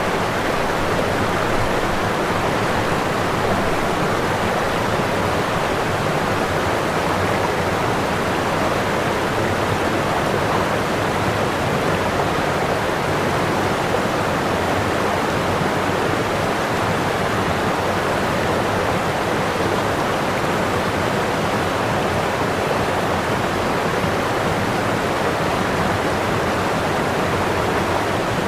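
Waterfall: whitewater pouring over the falls in a steady, unbroken rush.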